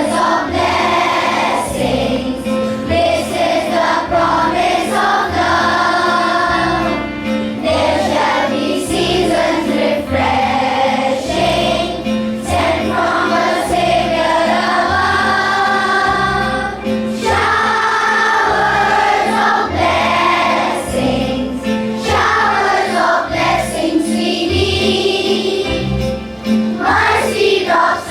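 A group of voices singing a morning prayer song together over instrumental accompaniment with a steady beat.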